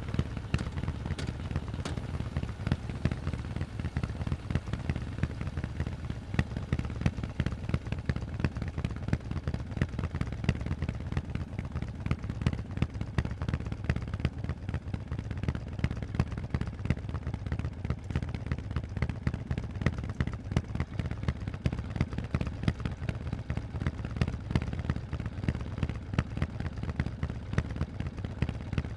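Harley-Davidson Forty-Eight's 1200 cc air-cooled V-twin running through loud Vance & Hines aftermarket exhausts: a steady stream of sharp, rapid exhaust pulses with a deep low rumble underneath.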